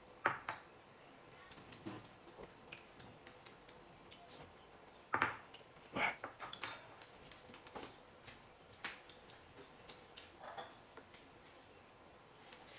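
Dishes and utensils clinking and tapping now and then: a dozen or so light, separate knocks spread over a quiet stretch.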